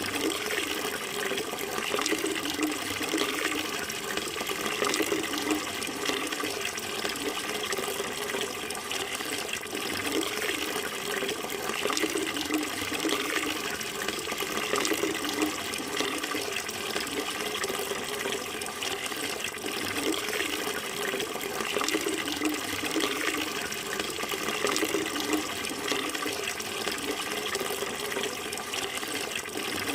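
Running water flowing steadily, a continuous rushing, splashing noise that keeps the same level throughout.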